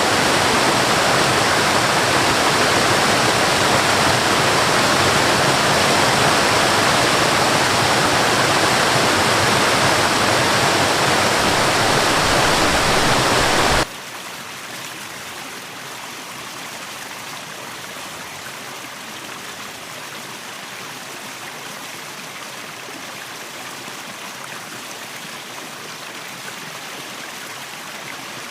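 Steady rushing of a waterfall. Just before the halfway point it cuts off abruptly to a quieter, lighter sound of running water.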